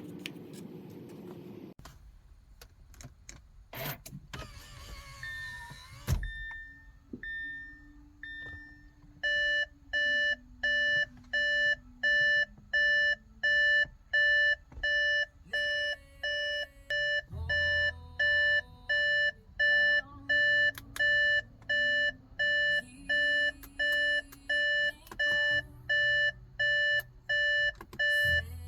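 Audi A7 warning chime: three single chimes, then a steady repeating beep, about three beeps every two seconds. A low steady hum joins about halfway through.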